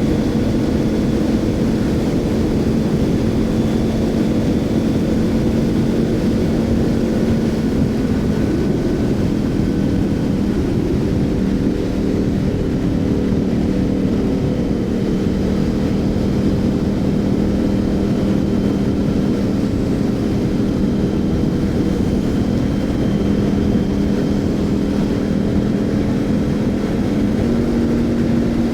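Motorcycle riding at steady speed: a steady engine drone over wind rush, its pitch dropping about eight seconds in and rising again near the end.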